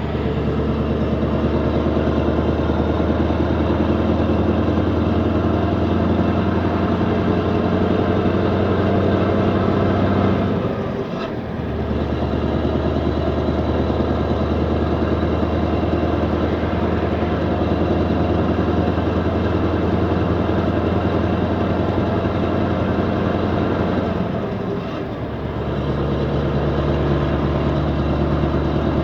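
Scania R500 16-litre V8 diesel with an open exhaust pipe, running steadily with a deep exhaust note. Twice the sound briefly dips and then settles again, about 11 and 25 seconds in.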